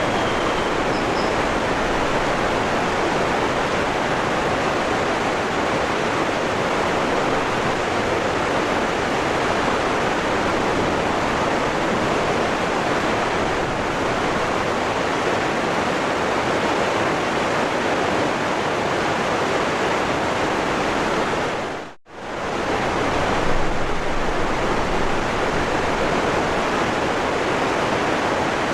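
Waterfall rushing in a steady, even roar. About two-thirds of the way through it dips briefly to near silence and comes straight back.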